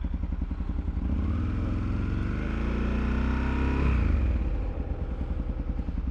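Motorcycle engine pulling away, its pitch rising for about three seconds, then dropping back about four seconds in and settling into a low, even, pulsing run.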